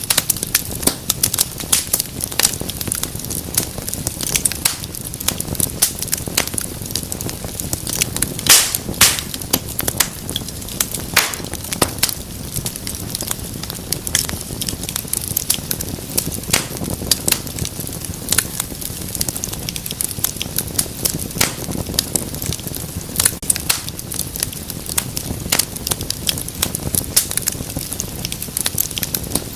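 Wood fire in a fireplace crackling, with frequent sharp pops and snaps over a low steady rumble of flames, a few louder pops about a third of the way in.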